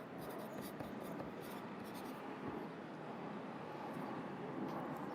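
Pencil writing on paper: a run of short scratching strokes, thickest in the first couple of seconds, over a steady background hum of city ambience.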